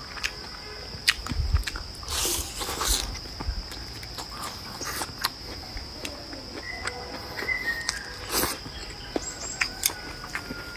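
Close-up eating sounds: chewing and mouth noises with many short clicks and a few brief crunchy bursts, over a steady high-pitched insect chirr.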